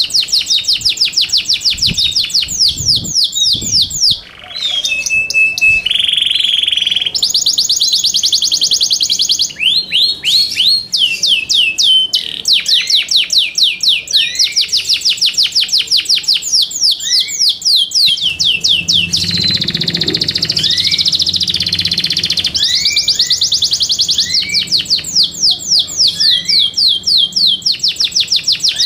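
Yorkshire canary singing: long, fast trills of rapidly repeated high sweeping notes, broken by a few held whistled tones.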